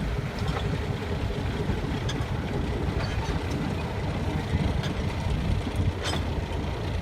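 Steady low rumble of a train, with a few faint clicks.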